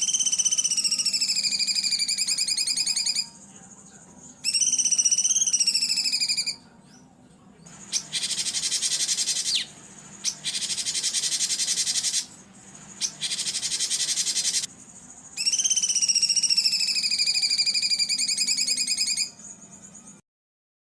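Songbird song on a masteran training recording: phrases of rapid high trilled notes, some sliding downward, alternating with harsher buzzy bursts in the middle. The song cuts off abruptly near the end.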